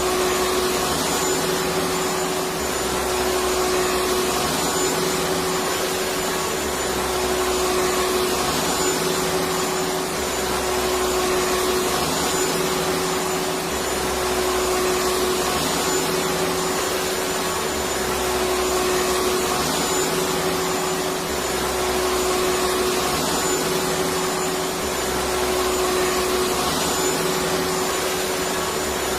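Electric vacuum cleaner running steadily: a constant rushing airflow with a steady motor whine, and a low rumble that swells and fades about every four seconds.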